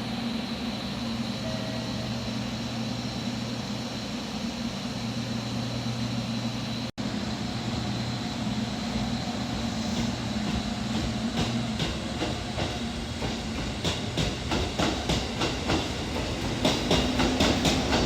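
Train running on the rails with a steady hum. From about the middle on, wheel clicks over the rail joints grow louder and come faster as it picks up speed.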